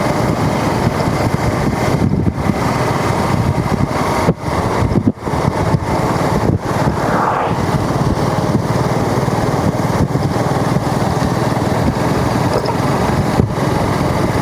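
Motorcycle engine running on the move, under a dense steady rushing noise that dips briefly about four to five seconds in.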